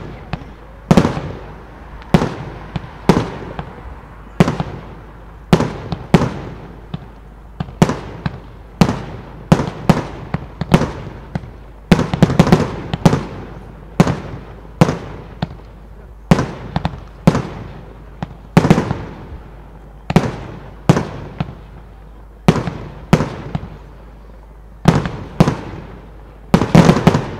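Professional display firework shells bursting: sharp bangs about one a second, each trailing off in an echoing tail, with quick runs of bangs near the middle and just before the end.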